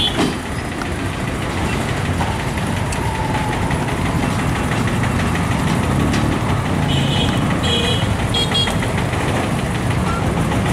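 Heavily loaded freight train rolling along the track: a steady low rumble of its wagons' wheels on the rails.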